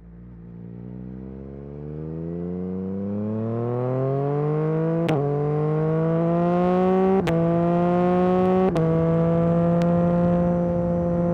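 Yamaha MT-09 SP's 890 cc inline-three through an Akrapovic Carbon Racing exhaust, accelerating from low revs and rising in pitch. It makes three quick upshifts, at about five, seven and eight and a half seconds, each a short break and dip in pitch, then runs at a nearly steady pitch.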